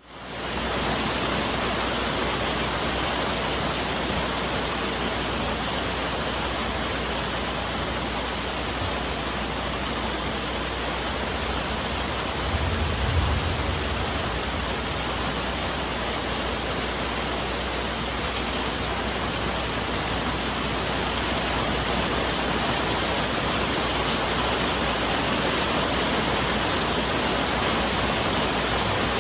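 Steady rain falling on forest foliage, an even hiss that fades in at the start. A brief low rumble swells and dies away about halfway through.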